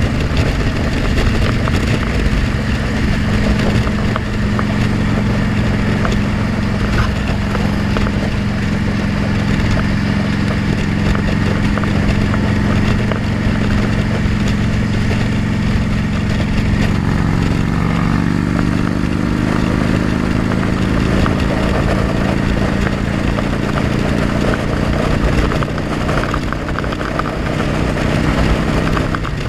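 Motorcycle engine running under a steady rush of noise, heard from a helmet-mounted camera. About two-thirds of the way through, the engine note rises a little and then holds steady.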